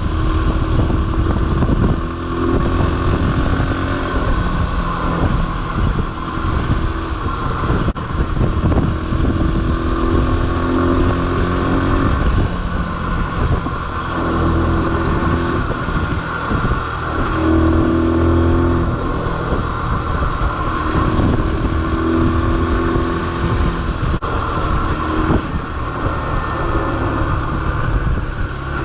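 Yamaha XTZ125's single-cylinder four-stroke engine running as the motorcycle is ridden, its pitch shifting up and down with throttle and gear changes.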